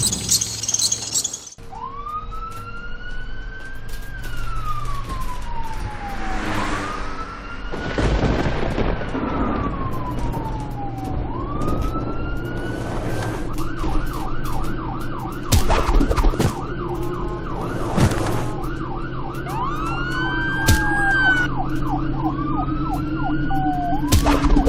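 Emergency-vehicle siren wailing in slow rises and falls, switching to a fast yelp for several seconds in the middle, then back to the slow wail. A steady low engine hum runs underneath, with a few sharp knocks.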